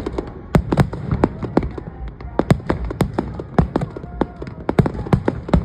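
Fireworks bursting in rapid, irregular succession: a dense volley of sharp bangs and pops, several a second.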